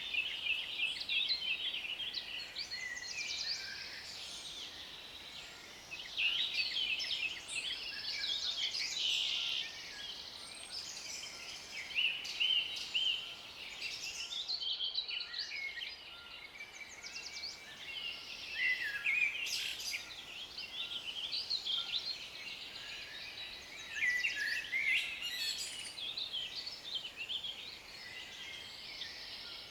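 Forest birds singing and calling: many overlapping chirps and trills, coming in louder bursts every few seconds.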